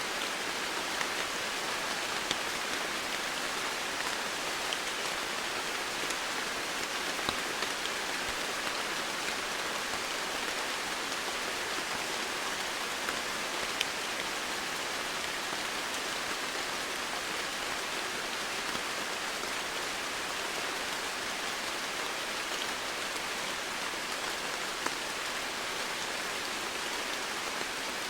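Steady rain falling as an even hiss, with a few louder single drop ticks here and there.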